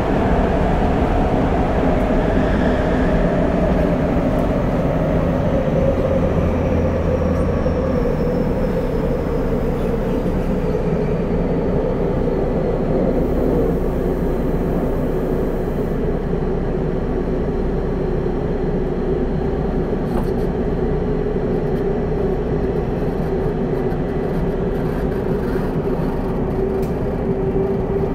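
Onboard running sound of a Tobu 30000 series electric train in a subway tunnel, heard from a motor car: wheels rumbling on the rails under a traction-motor whine that falls steadily in pitch as the train slows.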